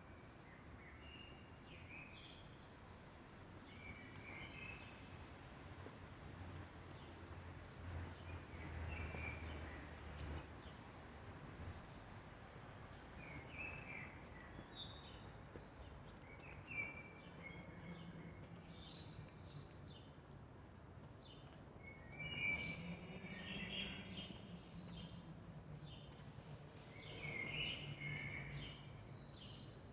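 Birds chirping here and there over faint background noise. A low hum comes in about a third of the way through and again through the second half.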